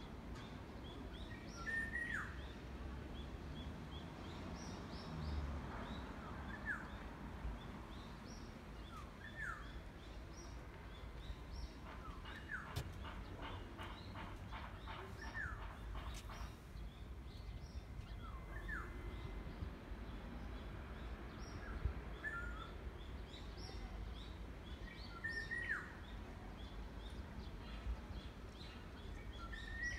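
Wild birds calling from the trees: a short call that slides down in pitch, repeated every couple of seconds, with higher chirps mixed in. About halfway through comes a quick run of ticking notes.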